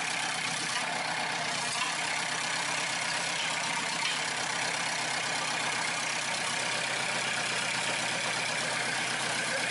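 Peugeot 206's 1.9 diesel engine idling steadily. Its replacement injection pump has been timed and the idle regulator set, so it runs more smoothly.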